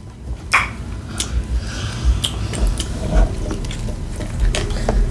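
Eating and food-handling noises: scattered small clicks and soft squishing over a low rumble.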